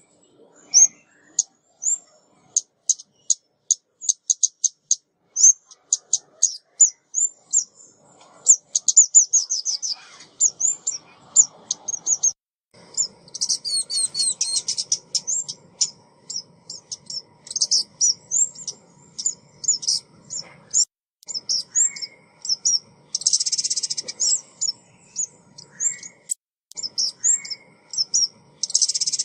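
Female ốc mít songbird calling: a fast run of short, high-pitched chirps and quick trills, repeated over and over as a lure call for trapping birds.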